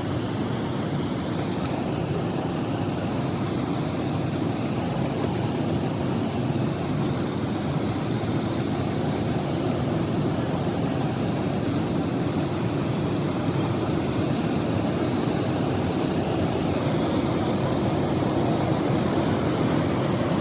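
Steady rushing of waterfall water, an even noise that grows slightly louder over the span.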